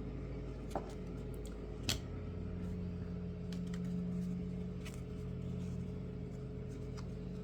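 Steady low mechanical hum of room background, with a few faint clicks, the clearest about two seconds in.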